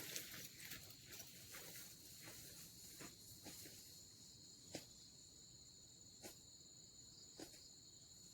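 Faint steady high-pitched drone of insects, crickets or cicadas, in two continuous tones, with a few soft clicks scattered through it.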